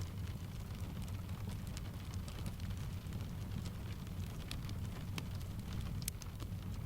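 Steady rain mixed with a crackling wood fire: a constant low rumbling hiss with scattered sharp crackles and pops, a few of them close together about five to six seconds in.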